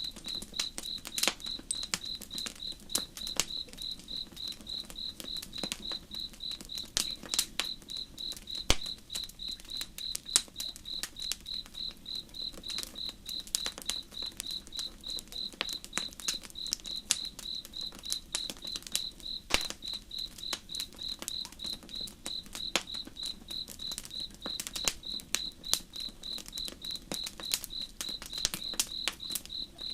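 Crickets chirping in a steady, even rhythm of several high chirps a second, over a campfire crackling with frequent sharp snaps and pops and a soft low rush of a slow-moving river.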